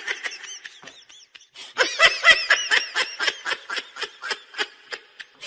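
High-pitched giggling laughter, a rapid run of short pulses, about four or five a second, growing louder about two seconds in.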